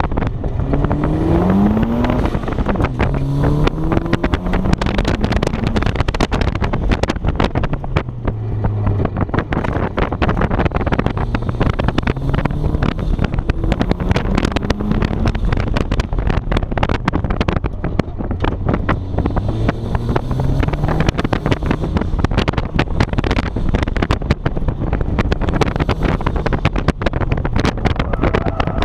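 1994 Mazda Miata's four-cylinder engine on an autocross run: it pulls hard from the start, its pitch climbing and dropping back again and again as the car accelerates, lifts and brakes through the course. Wind rumbles on the microphone.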